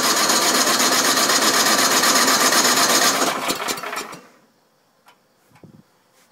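Murray Euro Series snowblower engine running, then sputtering and dying out a little over three seconds in, its firing breaking up as it stalls, followed by a couple of faint ticks. The owner blames the rough running on stale gas and a dirty carburetor.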